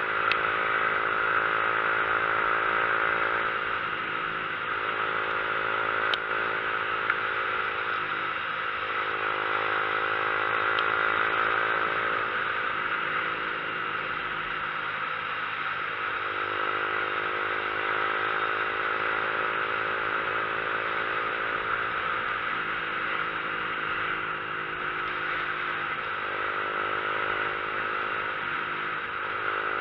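Motorcycle engine running under way, its pitch stepping and climbing several times as the rider changes speed, under a steady rush of wind and road noise.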